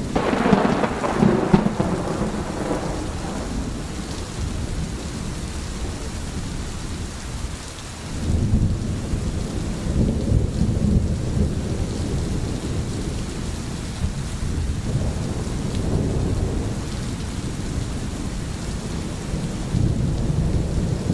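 Steady rain with thunder. A crackling thunderclap right at the start rolls away over about three seconds, and deep rumbling comes back about eight seconds in and carries on in waves.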